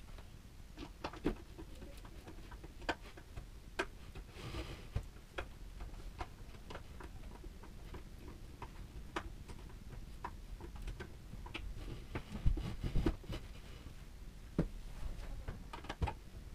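Irregular light clicks and taps of parts and hardware being handled in a small room, with a brief rustle about four seconds in and a louder cluster of knocks a little after twelve seconds.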